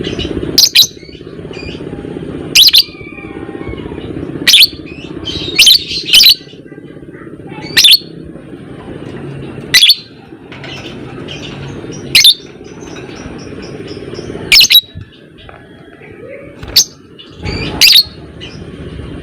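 Lovebird giving short, shrill chirps, about eleven of them, spaced one to two and a half seconds apart, over a steady low background rumble with fainter chirping between the calls.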